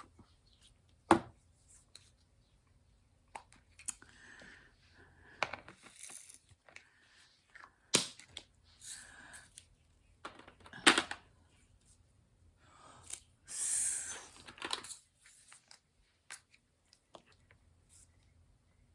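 Handling of diamond painting supplies: scattered sharp clicks and taps, with several short bursts of rustling, the longest about 13 seconds in.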